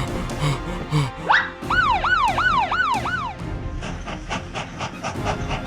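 Siren sound effect: a rising whoop, then five quick up-and-down wails, over background music.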